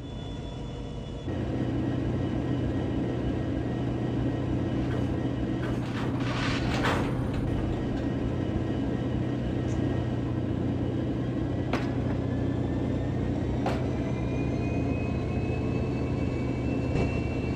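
Passenger train passing: a steady running rumble with a low hum that grows louder about a second in. A brief hiss comes about six seconds in, and a few sharp clicks are heard later.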